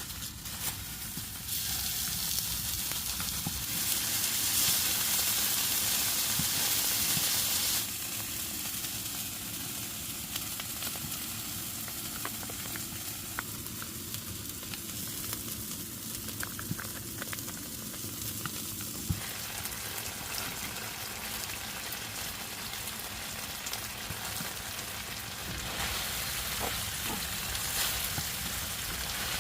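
Food sizzling and frying in a pan over a wood fire: a steady hiss with scattered small crackles and clicks, loudest a few seconds in.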